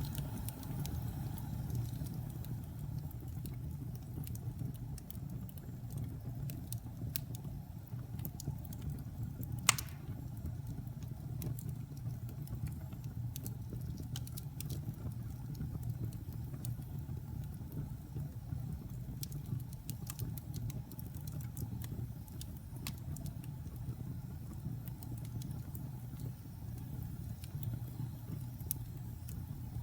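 Wood fire burning in a fireplace: a steady low rumble of flames with scattered small crackles and pops, one sharper pop about ten seconds in.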